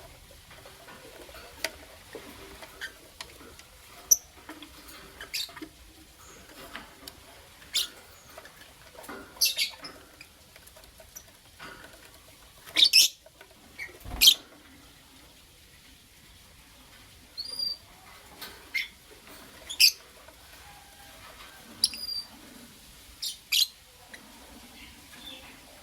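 Lovebirds giving short, sharp, high chirps at irregular intervals, mixed with small clicks. There is a louder knock about fourteen seconds in.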